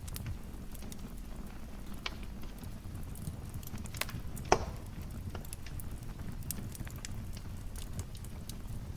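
Wood fire burning in a fireplace: a steady low rumble with scattered crackles and sharp pops, the loudest pop about halfway through.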